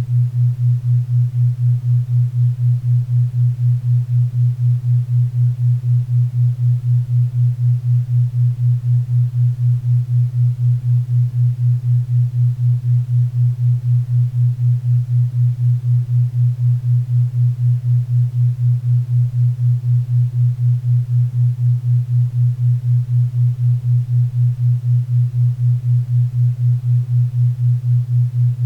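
A 4 Hz theta-wave entrainment tone: a low steady hum pulsing evenly about four times a second, over a faint bed of pink and brown noise.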